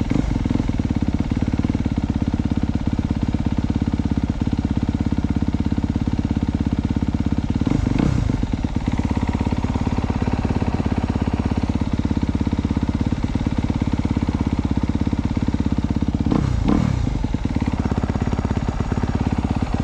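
A 2022 Honda CRF250R's single-cylinder four-stroke engine idling steadily during its warm-up, not yet up to temperature. The fast, even idle is briefly disturbed twice, about eight and sixteen seconds in.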